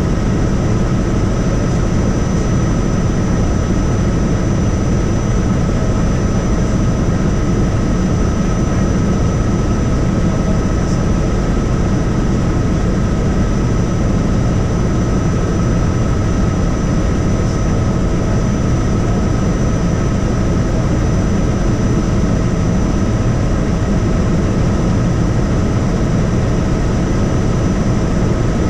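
Helicopter in flight: a steady, loud rush of engine and rotor noise with a constant high whine riding over it.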